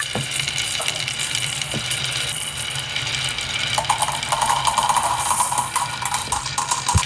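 Marbles rolling and clattering down a marble run track, with a steady run of small clicks and rattles.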